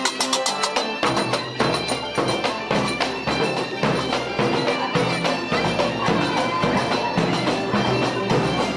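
Bagpipes playing a folk tune over a steady drone, with a regular beat; the sound grows fuller in the low range about a second in.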